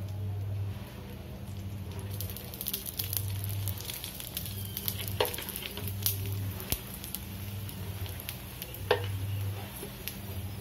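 An egg-topped paratha sizzling and crackling on a hot iron tawa, the beaten egg with onion, tomato and chilli frying on medium-low gas. The crackle grows denser about two seconds in, with a few sharper pops.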